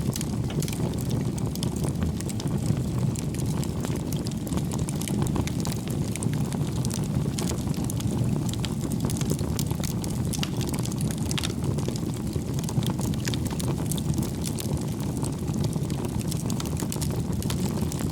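Wood fire burning in a fireplace: a steady low rumble of flames with frequent small crackles and pops of the burning logs.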